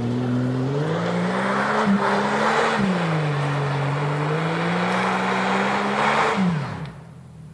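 Jeep engine revving hard under load, its pitch climbing and holding high, easing briefly about three seconds in, then dropping off sharply near the end. A loud rushing noise rides over the engine while it is working.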